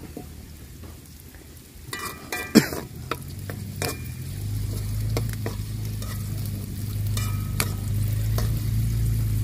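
Chopped chillies and shallots sizzling in oil in a black wok, with a spatula scraping and clinking against the pan as they are stirred. From about four seconds in, a low engine drone comes in underneath and grows steadily louder.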